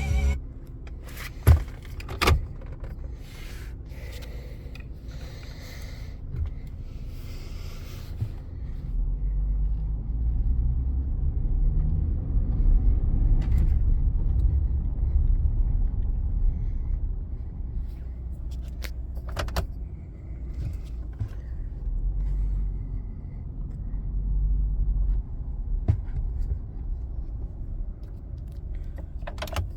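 2016 Ford F-150 pickup truck's engine running with a low rumble that swells louder and eases back a couple of times, with a few sharp clicks and knocks in the first few seconds.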